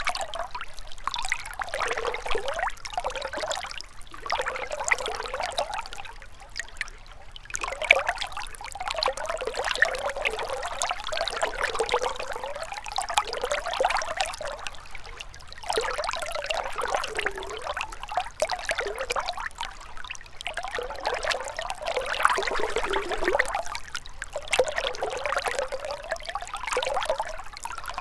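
River water trickling and gurgling, in uneven swells with short lulls between them.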